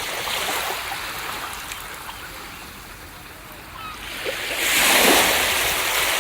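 Ocean surf washing on a beach: a steady hiss of water, with a wave breaking about five seconds in, the loudest moment.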